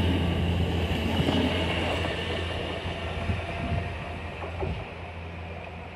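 Great Western Railway Class 800 bi-mode train pulling away from the platform on its underfloor diesel engines, a steady low hum with rail noise that slowly fades as it departs.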